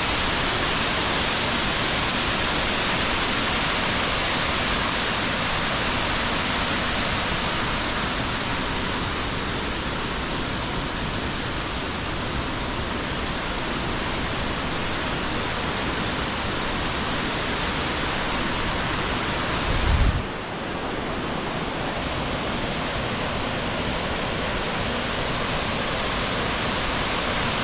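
Steady rushing of a waterfall heard close up. A brief low thump comes about twenty seconds in, and after it the rush sounds a little duller.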